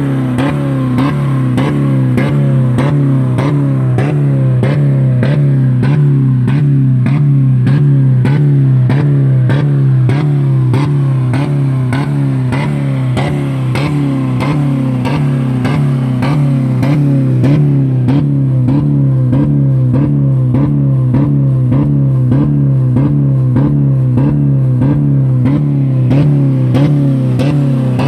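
2000 Dodge Neon's 2.0-litre four-cylinder engine held at about 4000 rpm against its rev limiter, a loud steady note cutting in and out about three times a second. The engine is running with no oil or coolant left in it.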